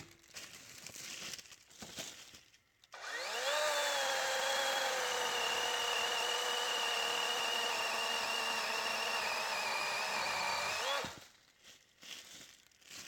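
DeWalt 20-volt 12-inch cordless electric chainsaw starting about three seconds in with a rising motor whine. Its pitch drops a little as the chain cuts into wet oak, then holds steady for about eight seconds before winding down.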